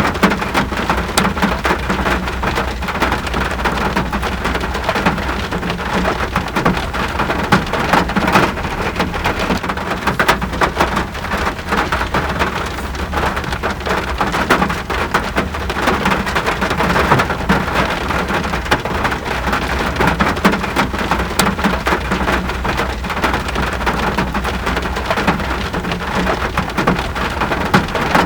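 Steady rain falling, with many close individual drops pattering on a surface over a continuous hiss, and a steady low rumble underneath.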